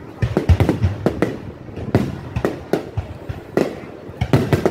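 Aerial firework shells bursting overhead: a rapid, irregular string of loud bangs, about a dozen in all, several coming in quick clusters.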